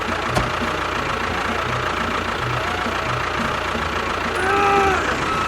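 A small motor or engine running steadily, with a faint repeating low pulse and a brief tone that rises and falls about four and a half seconds in.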